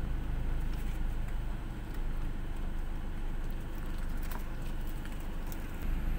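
Car engine idling, a steady low rumble heard from inside the cabin of a stationary car.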